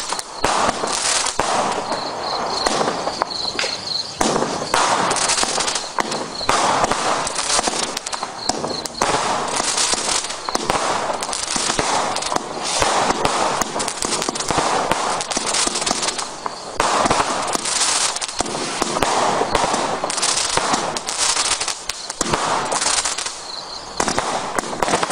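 Absolute Fireworks 'Whizbang' single-ignition barrage cake firing: a continuous, rapid stream of shots and bangs with crackle, coming in surges every second or two.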